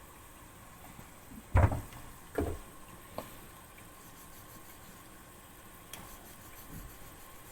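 Kitchen handling noises while cooking: two dull thuds a little under a second apart, then a single light click, over a faint steady room hum.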